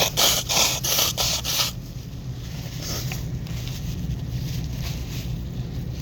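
About five quick rubbing strokes in the first second and a half, over a steady low hum.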